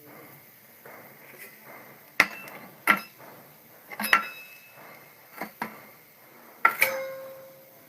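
Hard tableware clinking and knocking about five times, each strike sharp, with a short ringing tone after the last one near the end.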